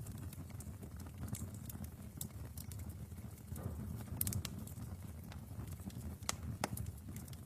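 Wood fire burning in a fireplace: a low steady rumble of flame with scattered sharp crackles and pops, a quick cluster of them about four seconds in.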